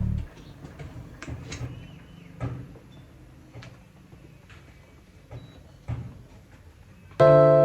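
Scattered light knocks and clicks of kitchen items being handled and set down, with a few louder knocks like a cupboard door closing.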